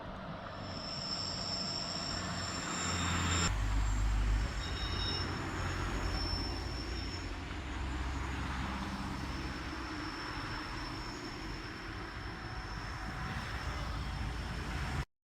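Rhaetian Railway train on the Bernina line passing over the tight curve of the Brusio spiral viaduct: a steady low rumble with high, steady wheel squeal. The sound jumps abruptly about three and a half seconds in and cuts off suddenly at the end.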